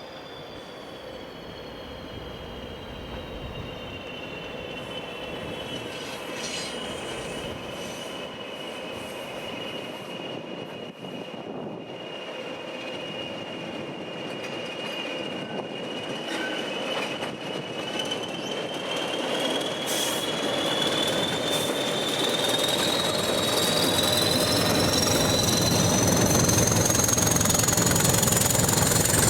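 A train's wheels squealing on the rails as it comes slowly closer, growing steadily louder. The high squeal tone sags a little in pitch through the middle, then climbs over the last ten seconds, with a deeper rumble coming up near the end.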